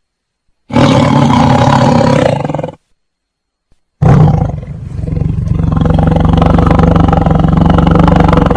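Big cat roaring: a loud roar of about two seconds, then after a short gap a longer, steadier roar lasting over four seconds.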